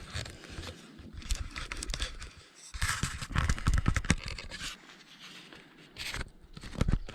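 Camera being handled and set down: scraping and rustling right against the microphone, with louder knocks about three to four seconds in and again near the end.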